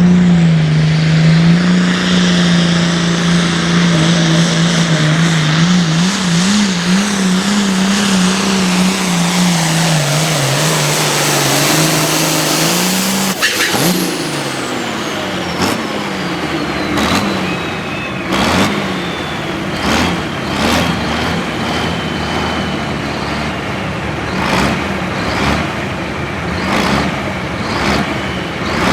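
Turbocharged diesel pulling tractor running at high RPM under load, its engine note wavering, then cut off abruptly about halfway through. The engine winds down as the turbo whistle falls in pitch over several seconds, with a string of sharp cracks.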